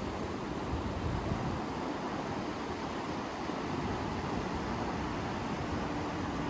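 Steady, even rush of water from a large waterfall.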